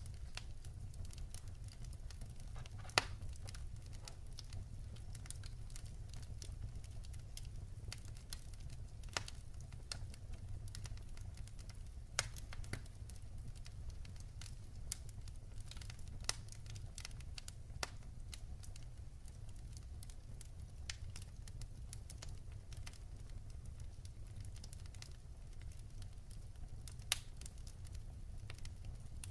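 Wood fire burning in a fireplace: a steady low rumble with irregular crackles and sharp pops every second or two, the loudest pop about three seconds in.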